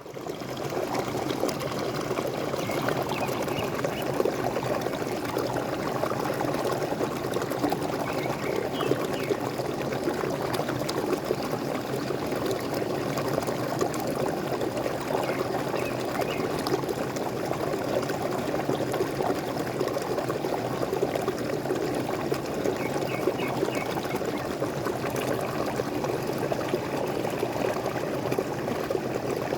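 Waterfall splashing and gurgling steadily, with a few faint bird chirps now and then above the water.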